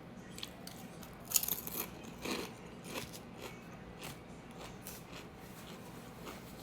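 A person biting and chewing crunchy food close to the microphone: a string of sharp crunches, the loudest about a second and a half in, then fainter ones.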